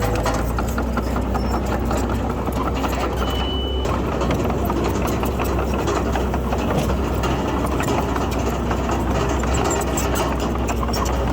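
Heavy diesel earthmoving machinery running steadily, its engine a low, even drone under a constant rattling clatter. A short, high beep sounds once about three seconds in.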